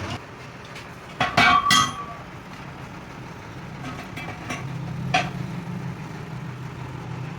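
Metal-on-metal clanks: a quick run of three or four ringing strikes about a second in, a couple of lighter ticks, and one more strike a little after five seconds. Under them runs a steady low machine hum.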